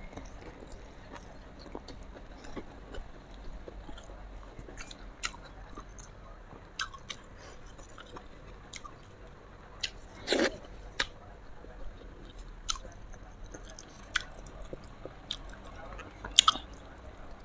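Close-miked chewing and biting: wet mouth clicks and smacks with scattered crunches, louder around ten seconds in and again near the end.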